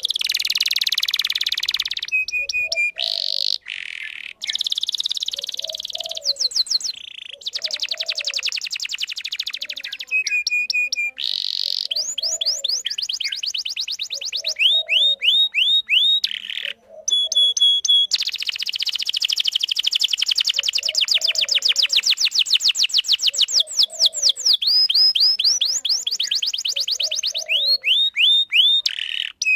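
Domestic canary singing a long, nearly unbroken song of fast trills, quick series of rising chirps and short steady whistled notes, with only brief pauses.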